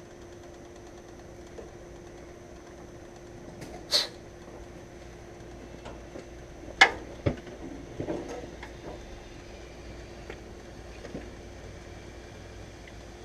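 Handling noise: a handful of short, sharp knocks and clatters, the loudest about seven seconds in, over a steady hum.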